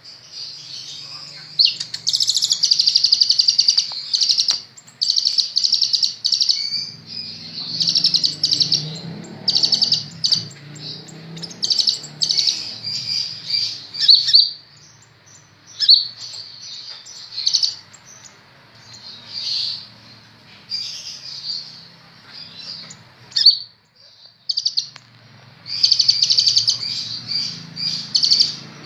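Sunbird (Indonesian 'kolibri ninja') singing actively: repeated short bursts of rapid, high-pitched chirps and trills, with a brief pause about three-quarters of the way through.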